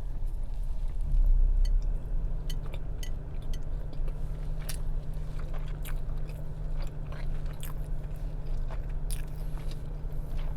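Close-miked chewing of a mouthful of food, with many small wet clicks and crunches, over a steady low hum.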